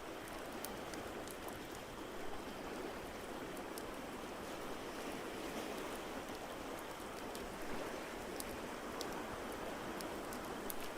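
Steady rushing water noise of an ambience mix, swelling slightly a couple of times, with scattered sharp crackles and pops from a wood fire.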